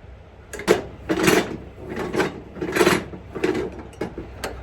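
About six rasping, scraping strokes in quick succession, each well under a second, from a cargo strap being worked while a flatbed load is strapped down.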